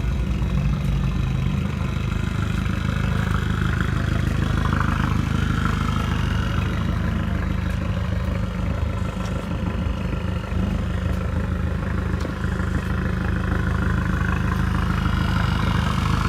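Car engine idling steadily, a constant low engine note with little change in revs.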